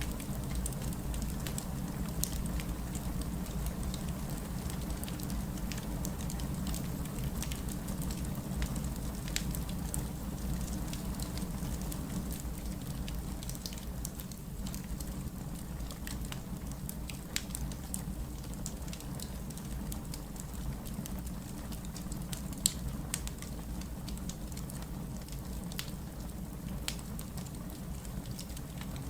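Wood fire burning, a steady low rumble with scattered crackles and pops, one sharper pop about three quarters of the way through.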